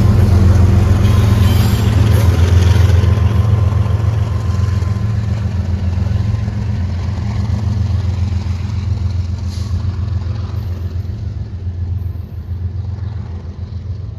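A train's diesel locomotive rumble and rolling noise, loud at first and gradually fading as it moves away.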